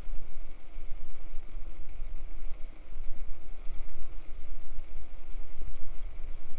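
Wind buffeting the microphone: a low rumble that rises and falls in gusts over faint outdoor background noise.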